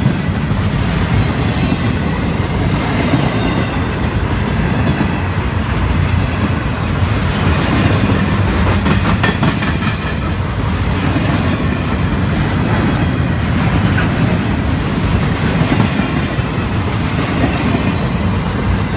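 Intermodal freight train cars rolling past at speed: a loud, steady rumble of steel wheels on rail, with a few sharp clicks about halfway through.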